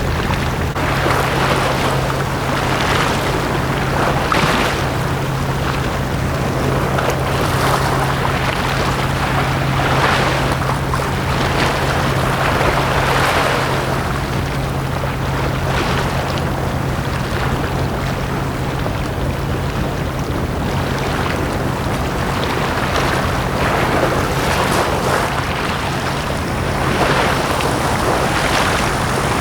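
Small sea waves washing onto a beach, swelling and falling back every two to three seconds, over a steady low hum that fades out near the end.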